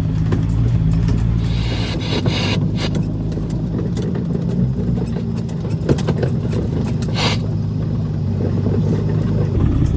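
Kenworth W900B dump truck's Caterpillar C13 inline-six diesel running steadily, with a slight change in engine pitch near the middle. Short hisses come about two seconds in and again about seven seconds in, with a few clicks.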